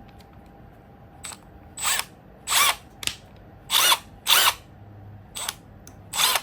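Power drill motor run in short trigger pulses: about eight quick whirs, each under half a second, the pitch sliding within each as the motor spins up and down.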